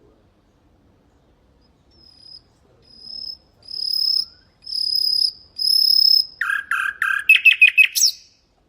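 Common nightingale singing: five long, high whistled notes that grow steadily louder, then a fast run of loud, chopped notes near the end.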